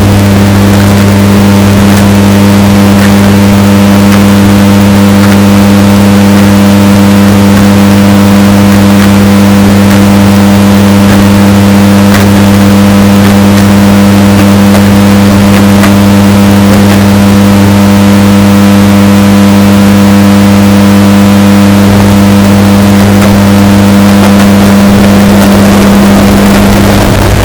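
Washing machine running with a steady, unbroken motor hum, heavily bass-boosted and distorted so that it plays at full loudness throughout.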